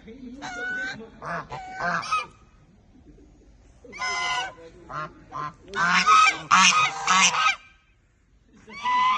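Domestic white goose honking: loud nasal calls in bursts, a few short honks, a pause, then a rapid run of honks between about six and seven and a half seconds, and more starting near the end.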